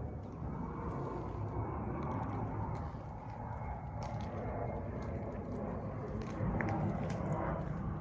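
Yamaha Blaster ATV's single-cylinder two-stroke engine running through an FMF aftermarket exhaust, a steady rapid exhaust note that gets louder about six seconds in.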